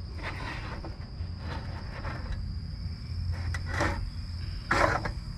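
Insects, crickets or similar, droning on a steady high note, over a low steady hum. A few short scraping or rustling noises come and go, the loudest about four and five seconds in.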